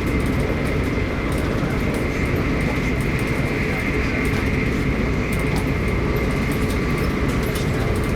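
Arlanda Express electric airport train running at speed: a steady rumble of wheels on rail with a thin, steady high whine over it.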